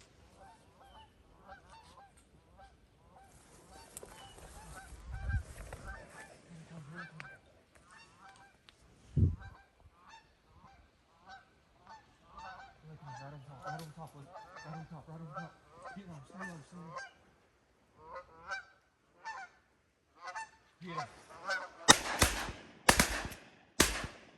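Geese honking repeatedly as a flock comes in, then three loud shotgun blasts about a second apart near the end.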